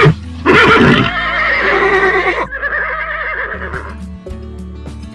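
Horse whinnying: a loud, quavering neigh starts about half a second in and fades out by about four seconds. Light background music plays underneath.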